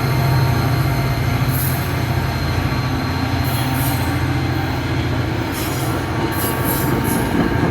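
NJ Transit passenger train cars rolling past with a steady low rumble; the wheels give several short, high-pitched squeals against the rails.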